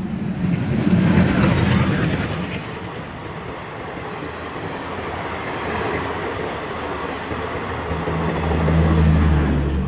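WDP4D diesel locomotive hauling a passenger train, its engine humming low and steady over the rumble and rail noise of the moving train. The hum grows louder toward the end.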